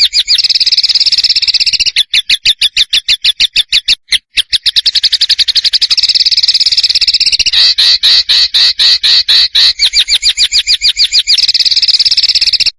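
A small songbird's rapid trill: long runs of fast, sharply repeated notes with brief breaks, turning coarser about halfway through. It is a masteran recording of rapid-fire song ('tembakan') used to train competition songbirds.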